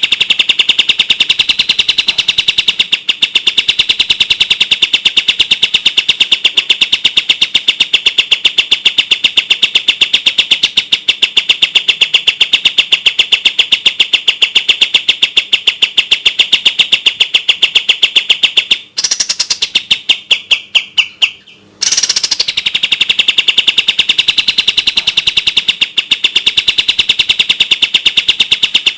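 Kapas tembak bird singing its 'tembak' call: a clear, very fast, tightly packed run of sharp repeated notes. The run breaks off at about 19 s, a few slower single notes follow, and the rapid run starts again at about 22 s.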